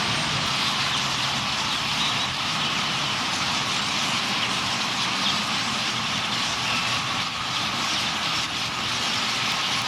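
Massed calling of a huge purple martin roost flock: a steady, dense din of countless overlapping chirps.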